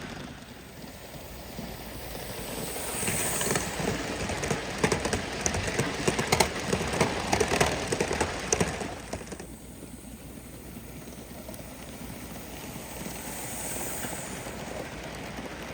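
Gauge 1 model train running past on its track, with a quick run of clicks; it grows louder over a few seconds, then drops away suddenly about nine and a half seconds in.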